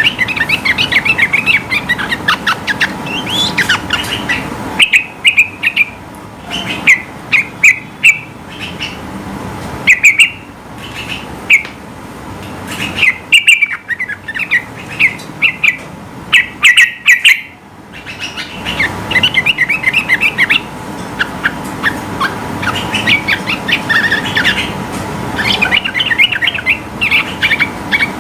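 Yellow-vented bulbul (trucukan) singing loud, bubbling phrases of quick chirped notes, burst after burst with short pauses between.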